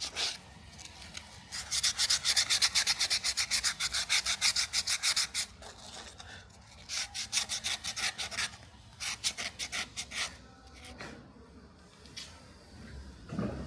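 Rapid back-and-forth abrasive strokes, about five a second, of a hand-finished knife blade rubbing on an abrasive. There is a long run of strokes, then two shorter runs, then a few single strokes near the end.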